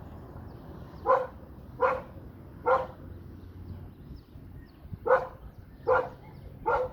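A dog barking, six single barks in two groups of three.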